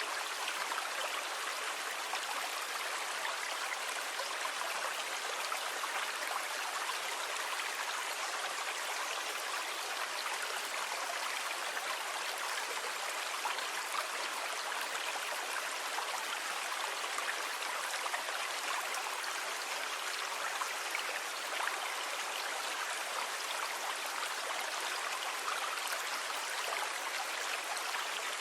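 Sea water washing steadily, an even rushing hiss with no distinct rise and fall of separate waves.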